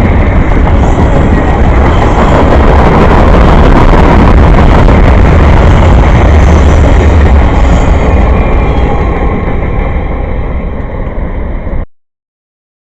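A passing train, a loud steady rolling rumble with heavy low-end buffeting. It eases slightly near the end and then cuts off suddenly.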